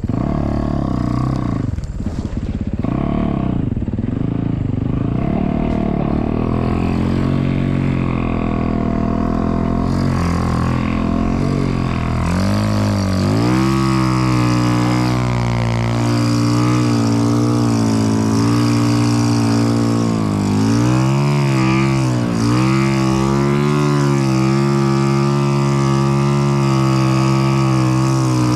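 Snow bike engine running under load, revs rising and falling; about twelve seconds in it climbs to high revs and holds there, with a brief drop in revs partway through.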